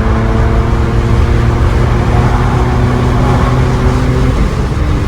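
Porsche exhaust with the muffler deleted, running at a steady engine speed with a loud, even drone; the note breaks off about four seconds in.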